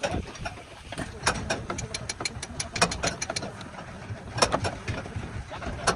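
A run of sharp mechanical clicks and knocks at an uneven rhythm over a low rumble, thickest about a second in and again near the end.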